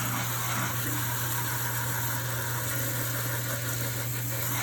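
Kitchen tap running steadily into the sink, an even rush of water over a low steady hum.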